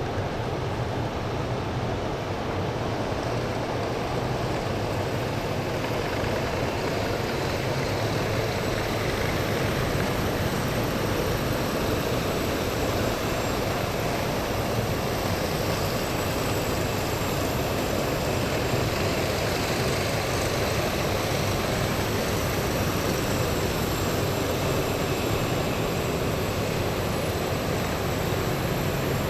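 A column of military vehicles driving past on a city street: heavy engines running and tyres rumbling in a steady, unbroken roar.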